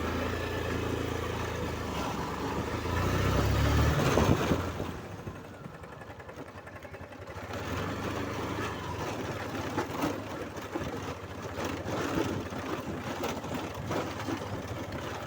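Hero Karizma ZMR motorcycle engine running while being ridden, getting louder about three to four seconds in, then dropping back for a couple of seconds before picking up again.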